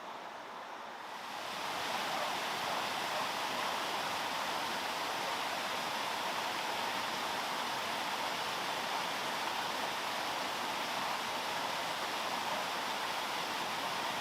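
Steady rushing of water that swells in over the first two seconds and holds even throughout.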